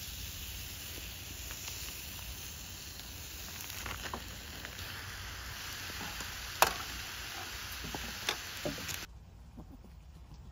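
Bean-sprout bulgogi sizzling on a small griddle, a steady frying hiss with a few sharp clicks, one much louder about six and a half seconds in. The sizzling stops abruptly about nine seconds in.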